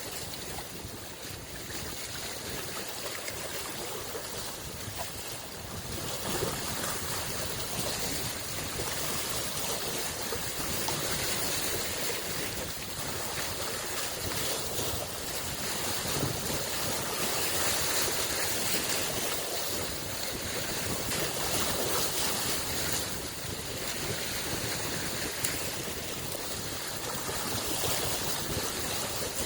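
Small waves on a freshwater lake washing in on the shore: a steady wash of water that swells and eases every few seconds.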